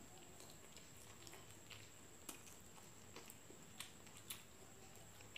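Faint chewing of fried chicken: a few soft mouth clicks and smacks scattered over low room noise.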